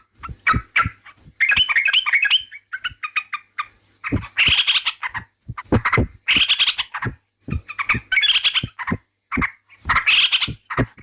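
Yellow-vented bulbul (trucukan) singing: loud, bubbly, chattering phrases of about a second each, repeated with short pauses between them.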